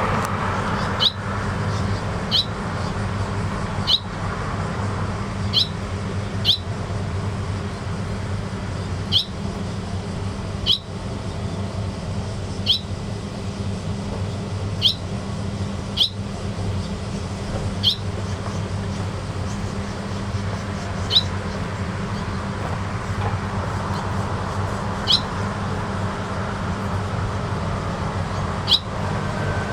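Barn swallow giving short, sharp single chirps over and over, one every second or two, each dropping slightly in pitch, over a steady low hum.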